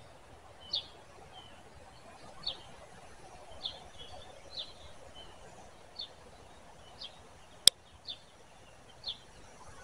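Short high bird chirps repeating about once a second over a faint outdoor background. About three-quarters of the way through there is a single sharp, very short crack, the loudest sound.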